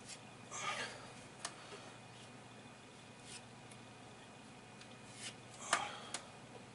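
Plaster filler (Polyfilla) being scraped and smoothed into holes in a wall: a few short, intermittent scrapes and light taps, the loudest near the end.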